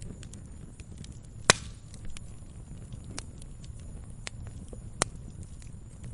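Wood campfire burning with a low steady rumble and scattered light crackles. There is a loud sharp pop about a second and a half in, and another about five seconds in.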